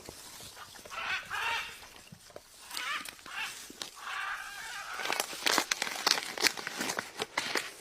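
A pet bird's short, harsh calls, then a quick run of sharp clicks and crunches in the second half, like a beak biting into fruit.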